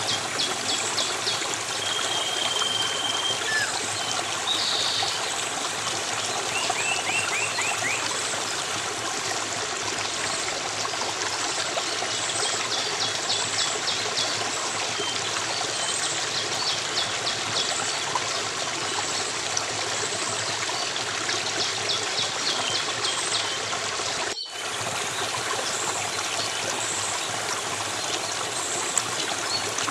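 Running water from a stream trickling steadily, with small birds chirping and trilling on and off over it. The sound cuts out for a split second near the end.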